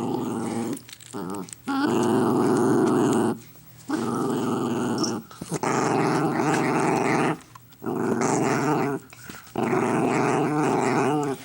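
Dog growling in a string of long, rough growls about one to two seconds each, with short breaks for breath between them. This is a warning growl over its food.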